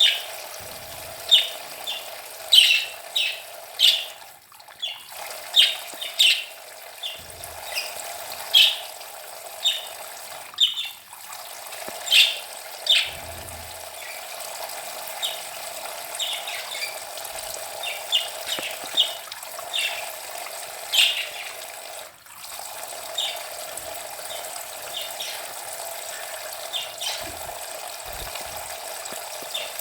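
Budgerigars chirping in short, sharp calls over the steady hiss of water spraying from a homemade shower. The water noise breaks off briefly three times.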